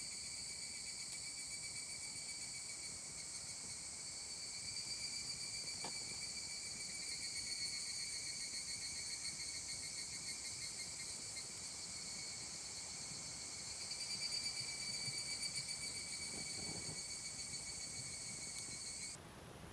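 Insects chirping in a steady, high, finely pulsing chorus that cuts off suddenly near the end.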